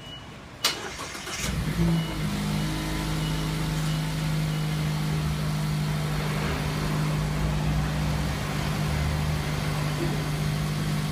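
Mazda ND Roadster (MX-5) inline-four started: a sharp click, a short burst of cranking, then the engine catches about two seconds in with a brief flare in revs and settles into a steady idle.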